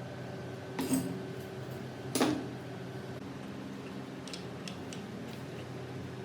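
Two knocks of metal parts being handled, the second louder with a brief ring, followed by a few light ticks, over a steady low hum.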